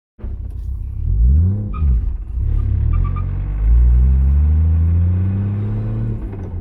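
Turbocharged 1JZ inline-six in a Lexus LS400, loud: a quick rev up and back down, then a long pull with the engine note rising steadily under acceleration.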